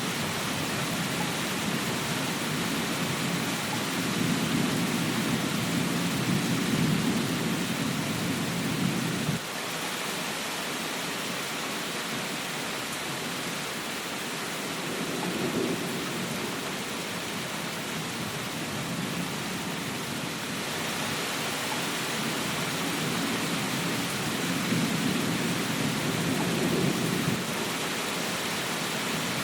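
Steady hiss of heavy rain, with low rolls of thunder rumbling in and out three times; the first cuts off abruptly about nine seconds in.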